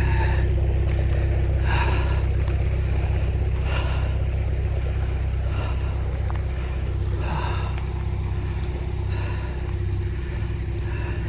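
Narrowboat's diesel engine running steadily, a low rumble, with a short hissing sound recurring about every two seconds.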